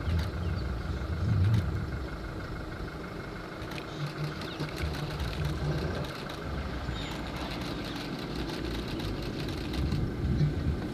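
A 4x4 safari vehicle's engine running at idle, a steady low rumble.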